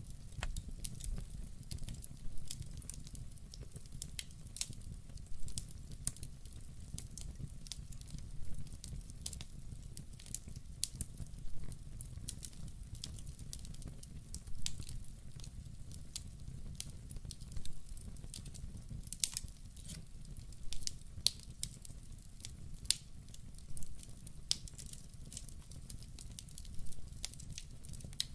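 Wood fire burning in a fireplace: frequent sharp, irregular crackles and pops over a low, steady rumble.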